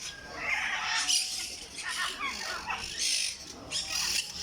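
Green parrot giving a series of harsh squawking calls, about one a second.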